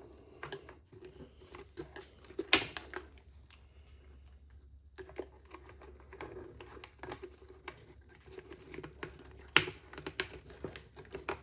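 Small plastic and metal RC car parts being handled and fitted by hand: scattered clicks and light rattles, with two sharper clicks, one about two and a half seconds in and one near ten seconds.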